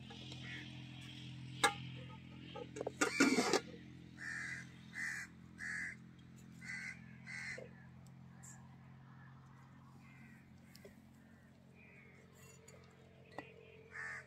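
A bird giving harsh caws, about five in quick succession, with fainter bird chirps later on. A brief loud noise comes about three seconds in, just before the calls.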